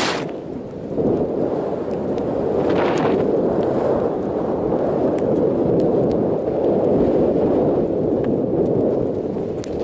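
Gale-force wind buffeting the microphone: a loud, continuous rumble that eases for a moment just after the start and then gusts back up about a second in.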